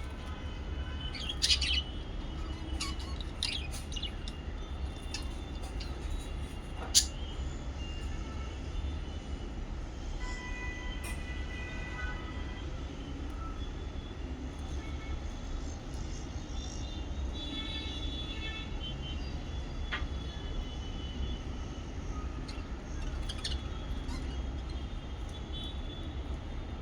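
Lovebirds chirping: sharp short calls scattered throughout, the loudest about 7 s in, with a few held whistled notes in the middle. A steady low hum runs underneath.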